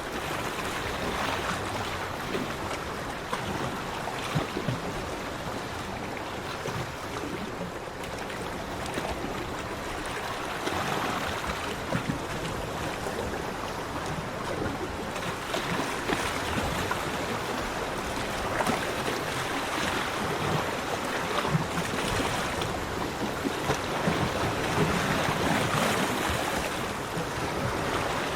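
Sea waves breaking on a beach: a steady wash of surf that swells louder every few seconds as waves come in and break.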